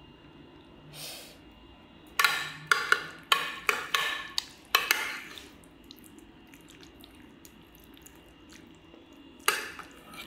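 A spoon clinking and knocking against cookware while macaroni is scooped into a baking dish: about seven sharp ringing clinks in quick succession from about two seconds in, then one more near the end.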